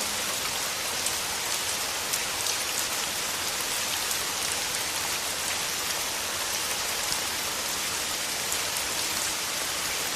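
Steady summer rain falling: an even hiss with the sharp ticks of individual drops scattered through it.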